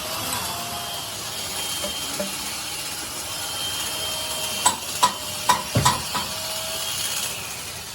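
Workshop machinery running with a steady hiss and a faint steady whine. About two-thirds of the way through it is broken by five sharp knocks in quick succession.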